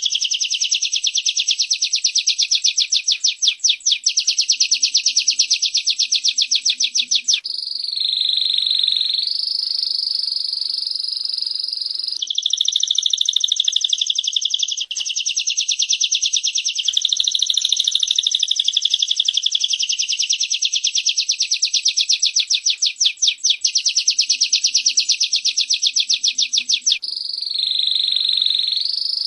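Female prenjak (prinia) calling and a canary singing: long, rapid, buzzing trills of many notes a second, high-pitched, alternating with shorter warbled phrases. The sequence repeats about every 20 seconds.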